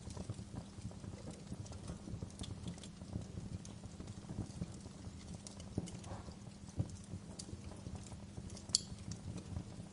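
Wood fire burning in a fireplace, crackling steadily with a dense low crackle and scattered sharper pops, one louder pop near the end.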